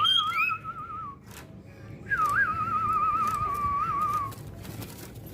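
Two long warbling whistles. Each opens with a quick glide and then wavers rapidly around one steady pitch, and the second begins about two seconds in.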